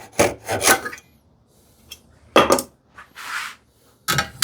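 Hand saw cutting a small wooden drawer side piece, with its last few strokes in the first second. Then a single wooden knock about two and a half seconds in, and a clatter of wood being handled near the end.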